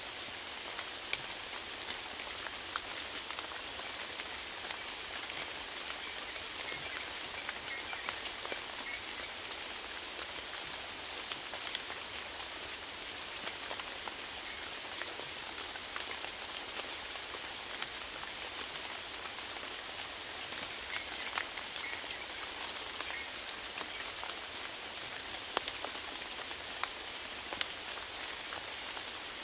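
Steady rain falling, with a constant hiss and many individual drops ticking sharply on a surface.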